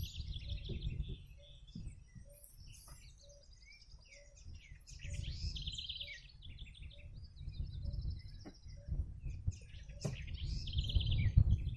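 Several wild birds chirping and singing, their calls overlapping, with a rapid trill heard twice, over a low rumble.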